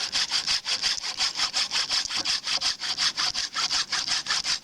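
Hand saw cutting through a firewood log in quick, even back-and-forth strokes, several a second.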